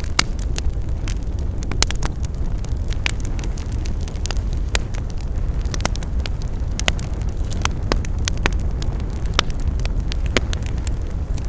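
Campfire crackling: wood burning with irregular sharp pops and snaps, several a second, over a steady low rumble.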